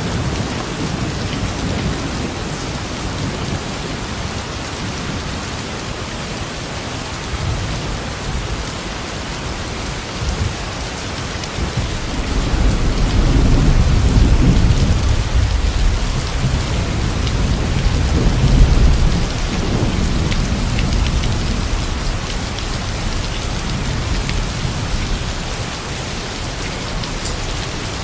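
Steady rain falling, with a long low rumble of thunder that builds about twelve seconds in and dies away about eight seconds later.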